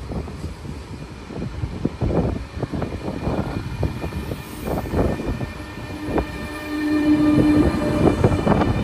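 Spanish high-speed electric train running past, a dense rumble with rapid clatter that grows louder toward the end. A steady tone sounds for about two seconds in the second half.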